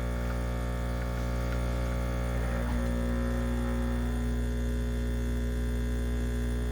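De'Longhi ES460S espresso machine's pump humming steadily while pulling a shot. The owner puts its noisiness down to missing plastic feet.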